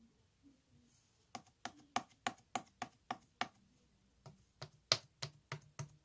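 A run of sharp clicking taps, about three to four a second, starting about a second in, with a short break near four seconds.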